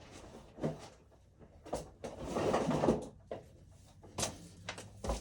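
Hand-handling noises: a few light knocks and clicks, with about a second of scraping or rustling about two seconds in.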